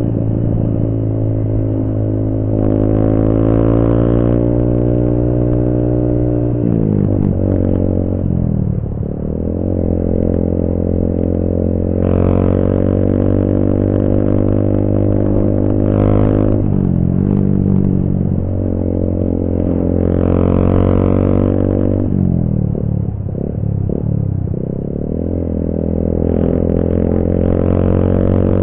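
Motorcycle engine running through a cheap Akrapovic-replica aftermarket racing exhaust, mostly at a steady idle. Its pitch dips and comes back up a few times, about seven, seventeen and twenty-three seconds in.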